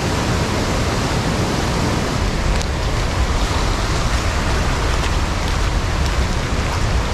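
Waterfall swollen by heavy rain, its water pouring in a steady, loud rush like a train, with a deep rumble underneath.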